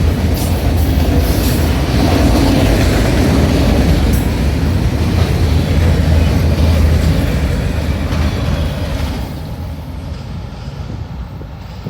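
Norfolk Southern freight train's cars rolling past on the rails, a steady loud rumble with wheel clicks, fading about nine seconds in.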